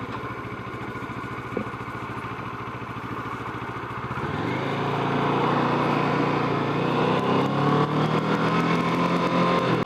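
Kawasaki Ninja 650 motorcycle engine running low and steady. About four seconds in it is opened up and the engine note rises and holds as the bike gathers speed.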